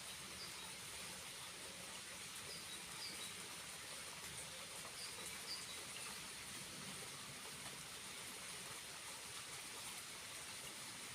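Faint steady rush of water from a small waterfall, with a few short high bird chirps, some in pairs.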